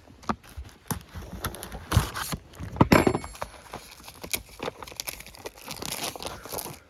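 Packaging of a new engine gasket kit being cut open and handled, with crinkling and tearing and irregular clicks and knocks, loudest about three seconds in.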